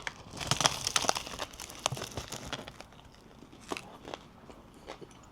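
A bánh mì being handled and bitten: crinkling of its wrapper and crunching of the crusty bread. A dense run of crackles lasts about two and a half seconds, then only a few scattered clicks follow.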